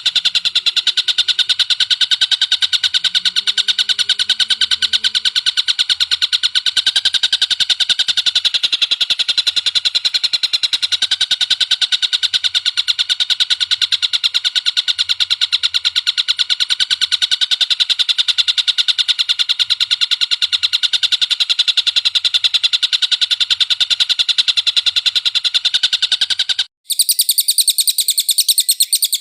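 A recorded songbird delivers a continuous, very rapid trill of high, evenly repeated notes, with no pauses. Near the end it cuts off and a different, higher-pitched bird call takes over.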